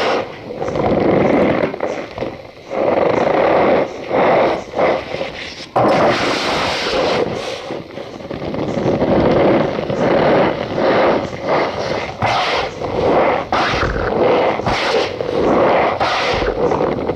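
Cornstarch powder squeezed and crushed, giving a dense, continuous squeaky crunching made of many short crackles.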